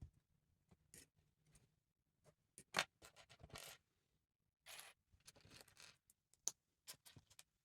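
Lego bricks being handled and pressed together: scattered small plastic clicks and short scrapes and rustles, one sharper click about three seconds in.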